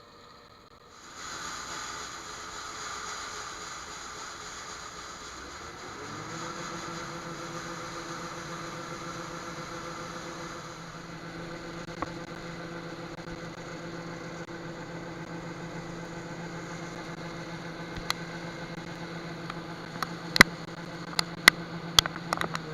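Farm machine engine running steadily; about six seconds in it speeds up and holds at the higher speed. Several sharp clicks or knocks near the end.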